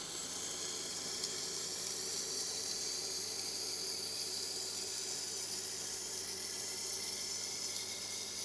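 Tormek wet grinding wheel sharpening the steel edge of a Victorinox knife: a steady, watery hiss of the blade against the wet stone over the grinder motor's low hum.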